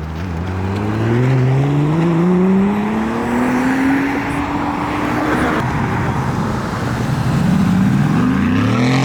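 Acura NSX Type S's twin-turbo V6 accelerating hard away from the meet. The engine pitch climbs steadily for about five seconds, breaks off as it shifts, and climbs again near the end.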